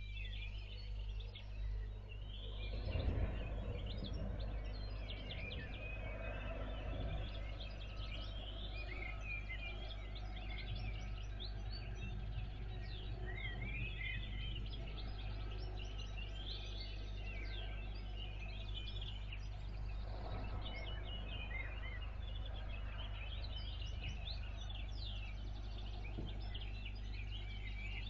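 Many small birds chirping and singing over a steady low hum, with a brief louder burst of noise about three seconds in.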